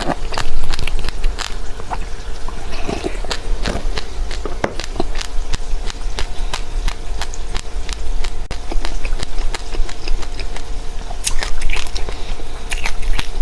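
Close-up chewing of seeds: a dense run of sharp crackling clicks and wet mouth sounds.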